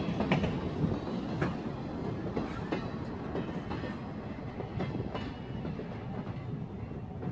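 Passenger coaches and a caboose of the Leadville, Colorado & Southern Railroad rolling past on jointed track. Under a steady low rumble, the wheels click and knock irregularly over the rail joints, and the sound eases slightly as the cars move away.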